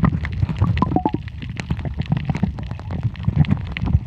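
Muffled underwater sound from a submerged camera: a steady low rumble of water moving around it, with many scattered clicks and crackles.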